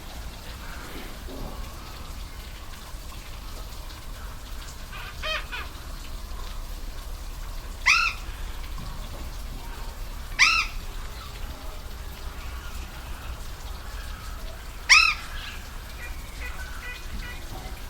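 Steady rush of a waterfall with a bird calling over it: a faint call about five seconds in, then three loud, short, harsh calls a few seconds apart. Faint chirps follow near the end.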